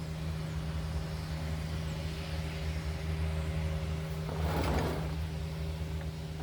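A steady low hum with a few constant tones, with a short hiss a little over four seconds in.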